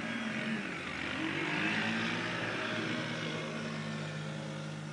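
A motor vehicle's engine running, its pitch rising and falling, under a broad rushing noise that swells about two seconds in and then eases.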